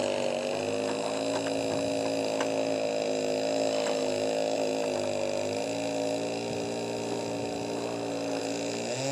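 A motor running steadily with a droning hum whose pitch wavers slightly, with a few faint clicks over it.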